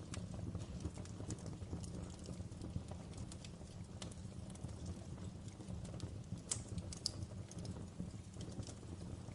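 Wood fire in a fireplace crackling: irregular sharp pops and snaps, two louder ones about six and a half and seven seconds in, over a steady low rumble of the flames.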